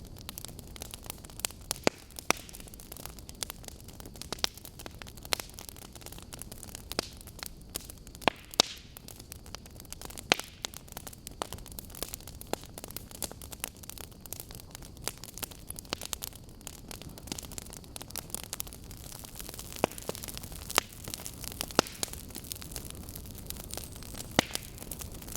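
Burning logs crackling: irregular sharp pops and snaps, a few much louder than the rest, over the steady hiss and low rush of the flames.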